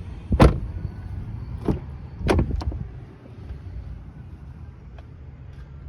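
A few sharp knocks and thumps inside a pickup truck's cab, the loudest about half a second in and three more over the next two seconds, over a low steady rumble.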